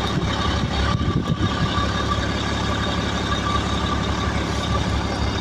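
Vehicle engine running steadily, a constant hum, typical of a truck idling or driving slowly in a snow storm.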